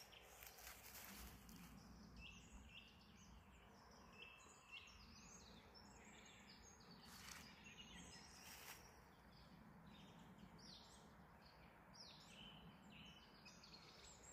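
Faint birdsong: many small birds chirping and calling in short, quick phrases over a quiet background.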